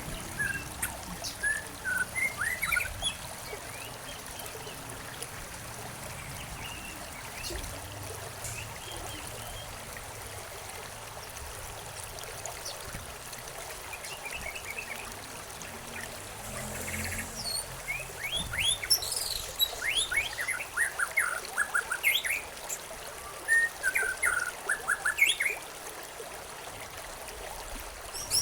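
Songbirds chirping over a steady trickle of flowing stream water; the calls are sparse at first and come thick and fast in the last third.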